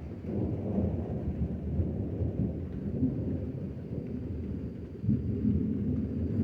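Deep thunder rumbling, coming in suddenly at the start and swelling again about five seconds in, over light rain.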